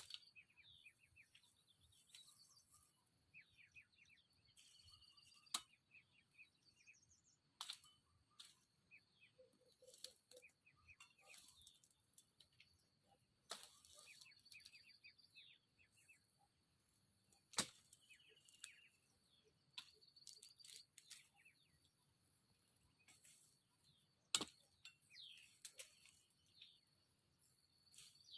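Faint forest ambience: small birds chirping in short, sliding calls over a steady high insect whine, broken by a few sharp isolated clicks or snaps.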